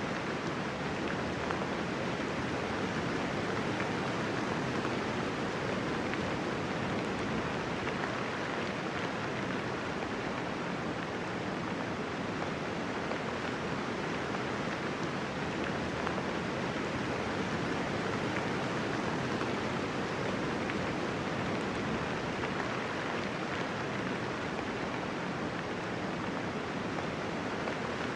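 Steady rainfall: a soft, even hiss of raindrops with no thunder.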